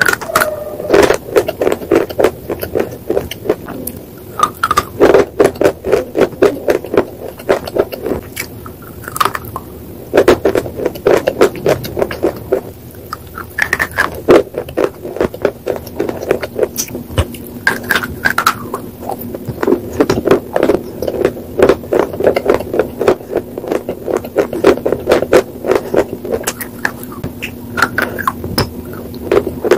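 Hard white slate pieces being bitten and chewed close to the microphone: rapid, crisp crunching and crackling in bursts with brief pauses.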